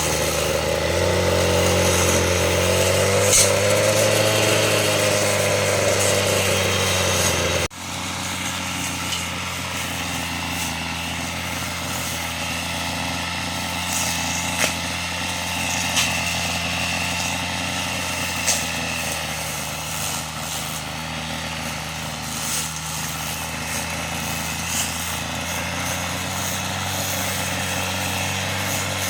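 Kubota engine running; its speed wavers up and down for a few seconds, then the sound breaks off abruptly about eight seconds in and resumes running steadily, with a few light clicks.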